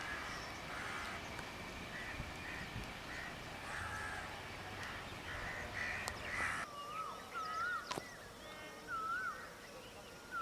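Birds calling: crow-like caws repeated about twice a second over a low background rumble. After an abrupt change about two-thirds through, the rumble drops out and wavering whistled birdsong takes over, with a single sharp click.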